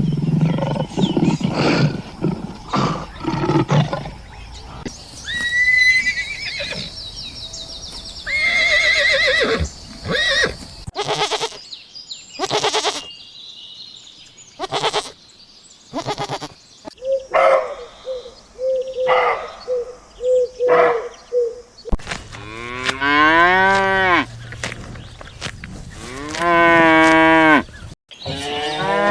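A string of different farm animal calls, one after another. Near the end come long, drawn-out cow moos.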